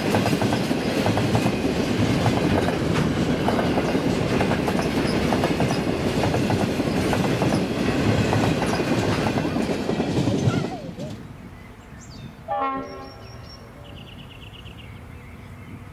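Freight train wagons rolling past, their wheels clattering and knocking over the rail joints in a dense, steady rumble that stops abruptly about two-thirds of the way through. A brief horn note follows, with faint background after it.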